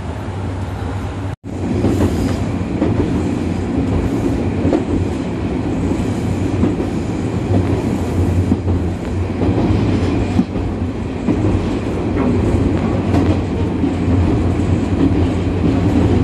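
Diesel railcar under way, heard from inside the front of the car: a steady engine drone with the wheels clicking over the rail joints. The sound breaks off briefly about a second and a half in, then runs on.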